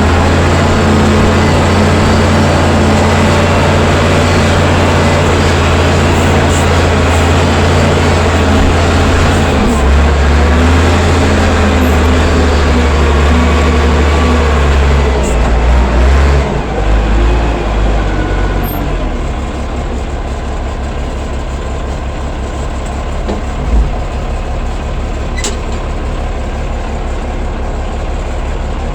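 Allis-Chalmers 940 wheel loader's diesel engine running under throttle, then throttled back a little over halfway through and settling to a lower, steady idle. A single knock follows a few seconds later.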